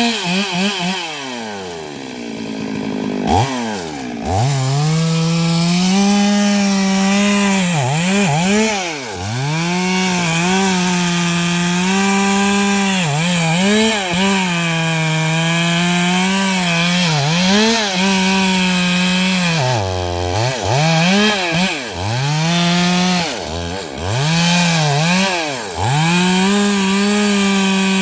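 Stihl MS 382 two-stroke chainsaw ripping eucalyptus logs lengthwise. The engine drops toward idle over the first few seconds and revs sharply back up. It then runs at full throttle, its pitch dipping briefly again and again as the chain bites into the wood.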